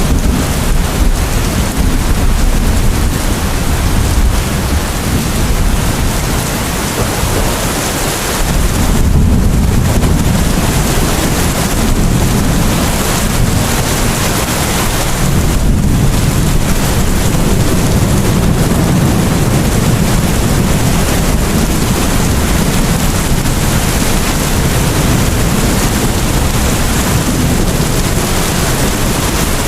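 Steady heavy rain with a low thunder rumble underneath that swells about a third of the way in.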